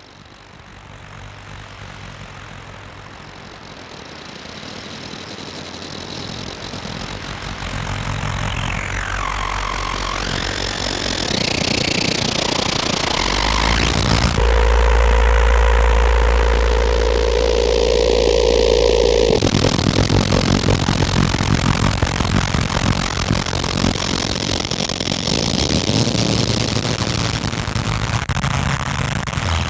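Experimental electronic noise music from Bastl Kastle and Korg Volca Modular synthesizers: a dense noise wash that swells over the first dozen seconds, with a pitch sweep dipping and rising again about nine seconds in. From about fourteen to nineteen seconds a loud low drone with a steady buzzing mid tone sits under the noise, which then carries on on its own.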